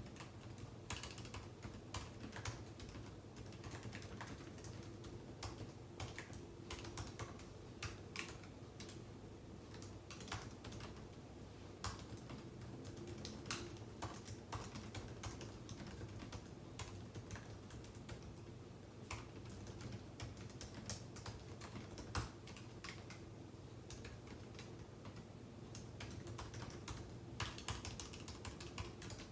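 Typing on a computer keyboard: quick, irregular keystroke clicks with short pauses, over a steady low hum.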